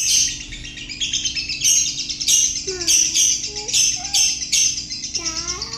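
Lovebird singing its ngekek: a long, unbroken chattering run of rapid high chirps, with louder bursts about every half second.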